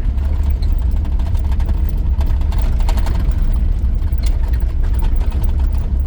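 Cab interior of a 1983 GMC C2500 pickup under way: its 350 V8 and road noise make a steady low rumble.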